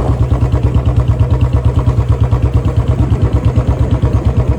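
Royal Enfield Bullet's single-cylinder engine running steadily at a slow idle, with an even beat of about five to six pulses a second.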